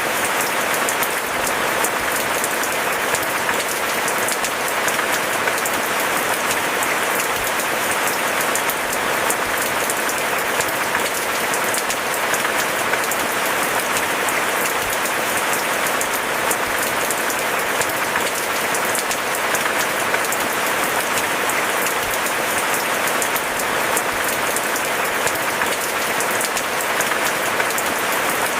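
Steady rain falling: a dense, even hiss full of fine drop patter, unchanging throughout.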